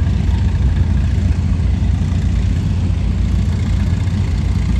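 Vintage farm tractor engine running steadily at low speed, a deep, even engine sound with no revving.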